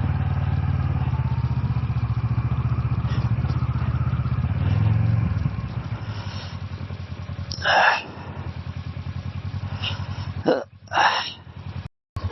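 Kawasaki ER-6f's parallel-twin engine running steadily, then dropping to a lower, pulsing idle about five seconds in. A few short, louder noises come over it, and the sound cuts off abruptly near the end.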